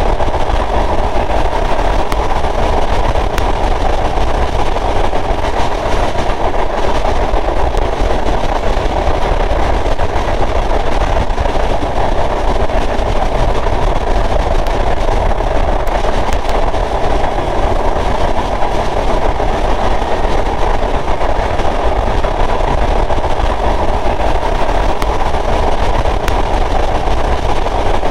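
Sundarban Express passenger train running steadily on the rails: a constant rumble with faint wheel clicks.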